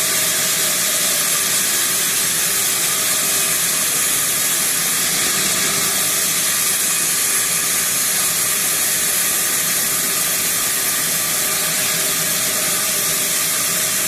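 Sawmill saw blade cutting teak wood: a steady, loud hiss with a faint machine hum underneath, holding even throughout.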